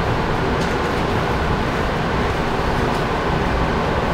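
Suburban electric train running at speed, heard from inside the passenger car: a steady rumble with a few faint clicks.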